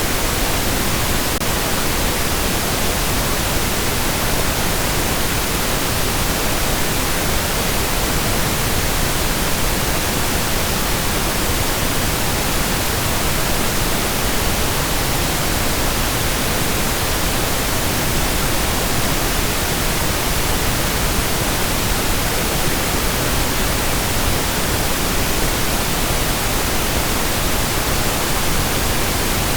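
Steady synthetic pink noise: an even, unbroken hiss that stays the same throughout.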